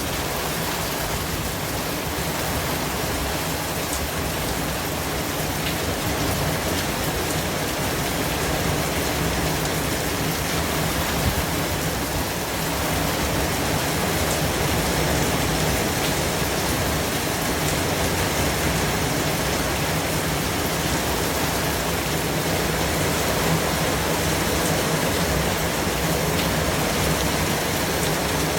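Steady white noise: an even hiss spread across all pitches, with a few faint ticks and a slight rise in level about halfway through.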